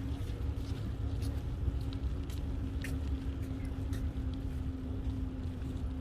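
Wind and road noise on the microphone of a moving bicycle: a steady low rumble with a constant hum and scattered light clicks.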